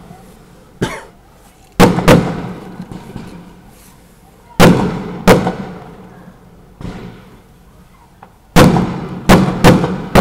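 Fireworks going off: a string of about ten sharp bangs, each trailing off, coming in clusters near two, five and nine seconds in.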